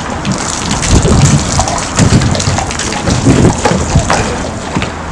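Rain falling: a loud, steady rushing hiss full of crackling drops, with an uneven low rumble underneath.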